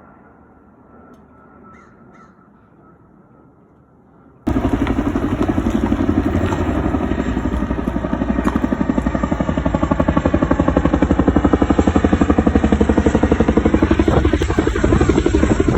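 Aircraft noise, loud and fast-pulsing, cutting in abruptly about four and a half seconds in after a quiet stretch with a faint steady tone.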